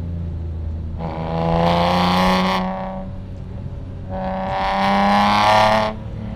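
BMW E46 M3's S54 straight-six engine through a straight-piped exhaust, accelerating hard twice between stretches of steady cruising. Each pull rises slightly in pitch; the second cuts off sharply as the throttle closes.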